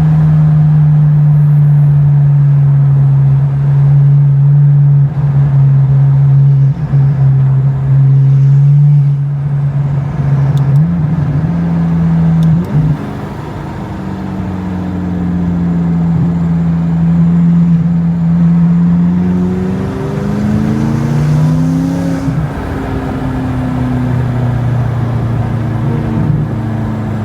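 A car engine and exhaust heard while driving. It holds a steady drone for about the first ten seconds, then the pitch dips and climbs as the car slows and speeds up, rising noticeably about twenty seconds in as it accelerates.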